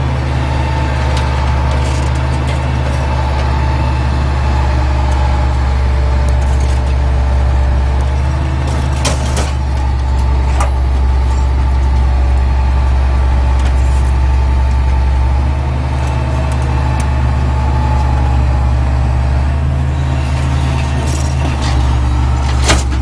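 Loader's diesel engine running steadily, its pitch and load shifting a few times, with a few sharp knocks about nine seconds in and near the end.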